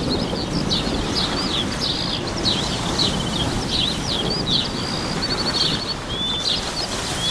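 Several songbirds chirping, trilling and whistling in a busy overlapping chorus, over a steady low background rush.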